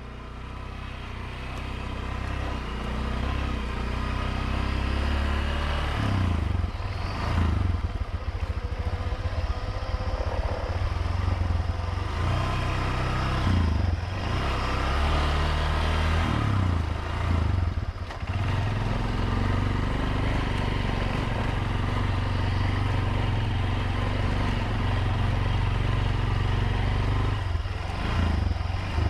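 Motorbike engine running under way, with a heavy low rumble of wind on the microphone and now and then some clatter from the rough road. The sound fades up over the first few seconds.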